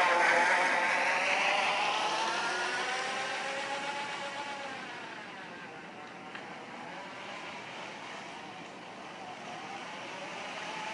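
Razor E300 electric scooter with an empty plastic water bottle wedged against its spinning wheel, buzzing like a motorcycle engine. The buzz fades and drops in pitch through the first half, then grows louder and higher again near the end.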